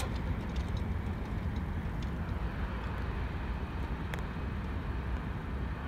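Departing Union Pacific freight train rumbling off into the distance, a steady low rumble that slowly fades.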